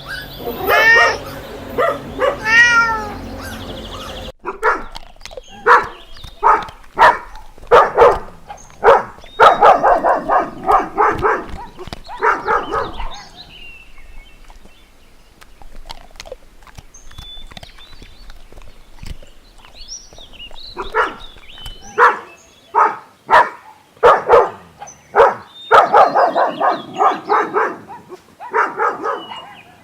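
Kittens mewing over and over in short, high calls, in two busy bouts with a quieter stretch in the middle.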